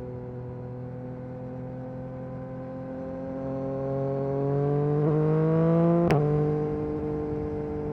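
A 2022 Yamaha MT-09 SP's 890 cc inline-three engine running through an Akrapovic carbon racing exhaust under way. The note sags slightly, then rises as the bike accelerates, peaking with a sharp crack about six seconds in as it shifts up, after which it settles at a slightly lower pitch.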